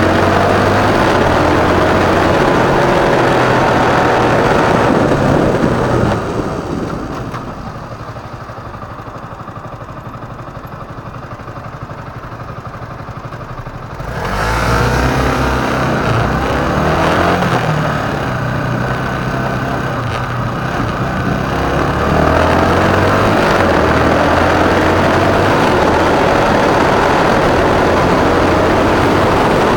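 Motorcycle running while being ridden, with engine and wind noise picked up on board. The noise drops for several seconds about a fifth of the way in, then rises again about halfway through as the engine revs up.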